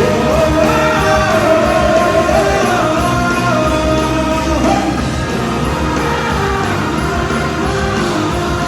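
Live rock band performance: a lead vocal sings a long, bending melody line over the full band.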